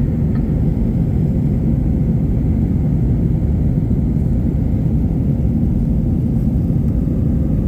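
Steady low rumble of an Airbus A321-200's engines and airflow heard from inside the cabin, with a faint steady hum above it.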